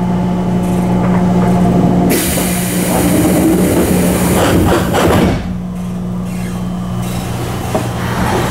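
Chiba New Town Railway 9800 series electric train running, heard from inside the car, with a steady low hum. About two seconds in, a loud rushing noise sets in for about three seconds, with rattling near its end, then drops away to the steady running sound.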